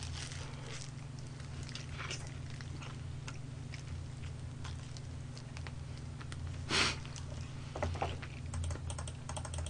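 Chewing and biting fried chicken: soft crunches and wet mouth sounds, with one louder crunch about seven seconds in and a run of small clicks near the end, over a steady low hum.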